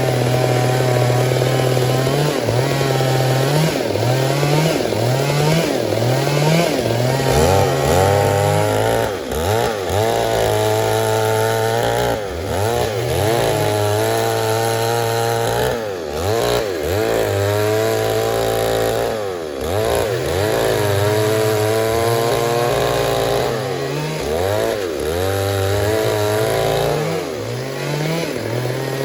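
Stihl MS 382 two-stroke chainsaw running at high revs. From about eight seconds in, its pitch sags and recovers every second or two, the way a saw's engine dips under load while cutting wood.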